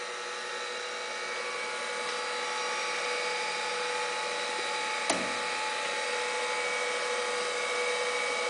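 Harig 618 surface grinder's spindle motor running steadily with an even hum. A single sharp click comes about five seconds in.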